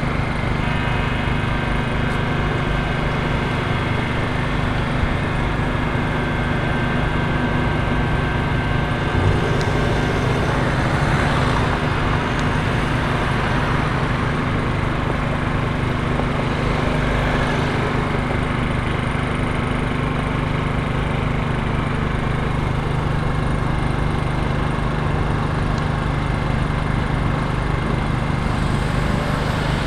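A small engine running steadily at an even speed, an unchanging hum.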